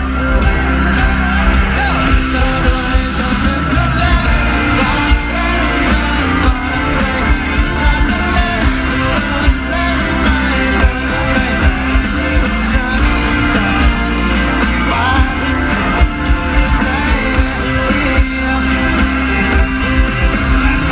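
Live rock band playing loudly through a PA, with drums keeping a steady beat, bass and electric guitar, and singing over it.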